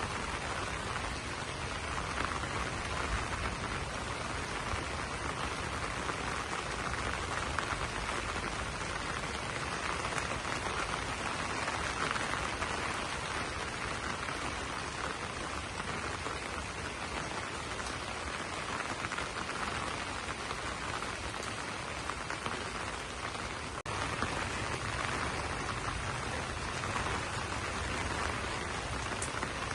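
Steady rain pattering on broad banana leaves: a dense, even hiss of drops, with a momentary break about 24 seconds in.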